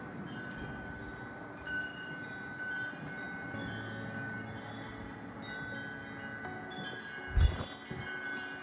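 Wind chimes ringing in the storm wind, several tones of different pitch starting and fading at different moments. A short low thump about seven seconds in.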